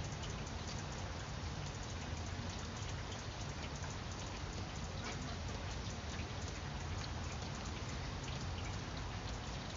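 Steady rain falling on vine leaves, a constant patter with many close individual drops ticking through it.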